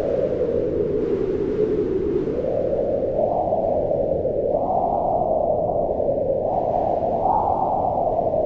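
Howling mountain wind in a snowstorm, a steady hollow moan whose pitch sinks and then swells upward in gusts about three, four and a half and seven seconds in.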